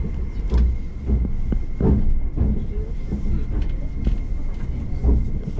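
Tobu Spacia X limited express train running: a steady low rumble of wheels on rails, with a few short knocks and a faint steady high whine.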